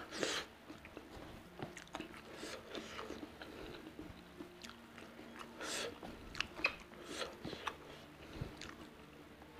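Close-up mouth sounds of a person chewing food: irregular wet clicks and smacks, loudest just after the start and again around six to seven seconds in.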